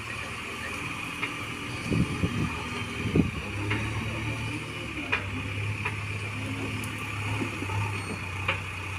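A heavy vehicle engine running steadily, with a few sharp knocks and clanks, the loudest about three seconds in.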